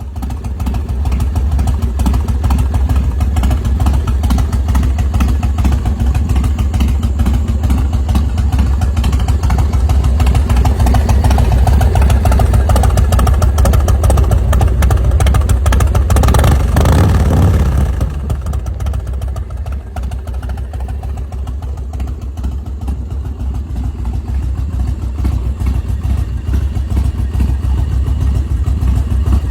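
The V-twin engine of a 2004 American IronHorse LSC custom chopper running with a deep, pulsing rumble. It runs louder and higher over the middle, eases off to a quieter run after about 18 seconds, and picks up again near the end.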